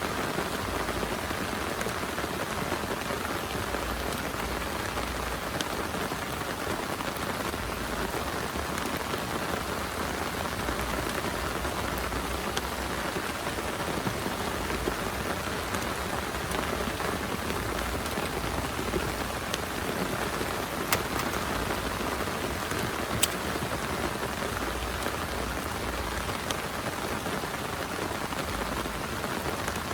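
Heavy rain falling steadily, with scattered sharper drop ticks; two stand out about two-thirds of the way through.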